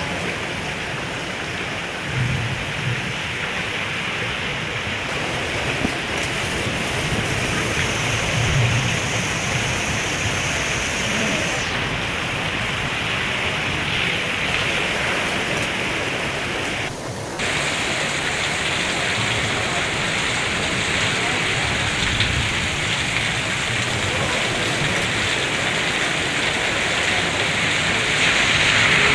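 Heavy rain pouring down steadily as a dense, even hiss, with a brief dip about seventeen seconds in.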